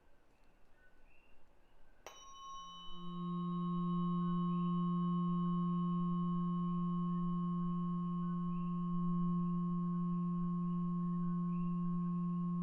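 A 174 Hz Solfeggio tuning fork is struck once about two seconds in. It gives a brief bright metallic ring, then a steady low hum that holds.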